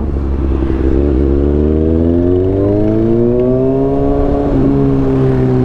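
Kawasaki ZX-6R inline-four engine pulling under acceleration, its pitch rising steadily for about three and a half seconds, then dropping suddenly near the end and holding steady.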